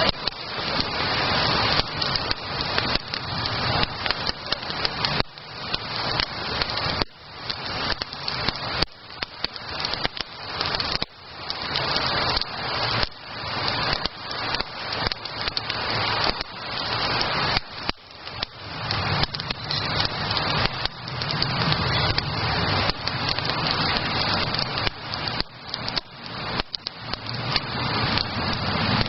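Wood campfire burning close by, crackling and popping with a steady run of irregular snaps.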